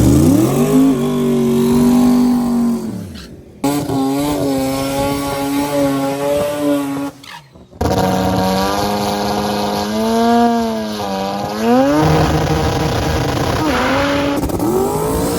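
Drag-racing Mazda RX7 engines revving hard, pitch climbing and then holding high. The sound is several short clips cut together, with abrupt breaks about three and a half and seven and a half seconds in.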